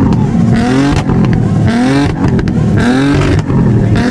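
Car engines revving loudly again and again. The pitch climbs and falls back about once a second, with more than one engine overlapping.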